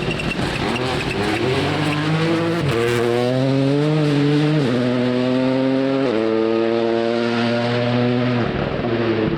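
Rally car engine at full throttle accelerating through the gears: its note climbs and drops sharply at each upshift, about three times, and breaks off near the end as the car goes by.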